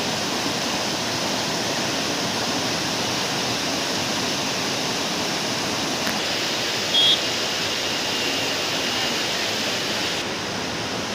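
Waterfall rushing steadily, with a brief high beep about seven seconds in.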